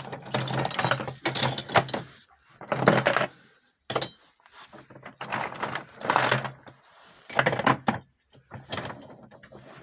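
Loose metal boat hardware clinking and jangling as it is picked through and handled, in about six bursts of rattling.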